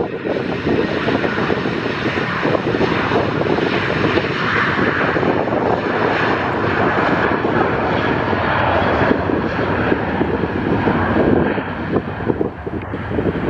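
Airliner engines running loud as a plane passes, a steady rushing noise that swells about four to six seconds in and eases toward the end.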